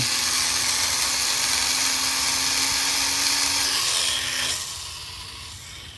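Tiny electric motor and propeller of an Air Hogs E-Charger micro plane spinning with a steady high-pitched buzzing whine, which fades off sharply about four and a half seconds in.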